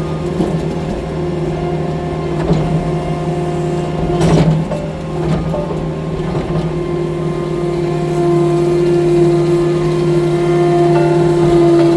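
Tracked skid steer loader's engine running steadily at a constant pitch, with a single sharp knock about four seconds in.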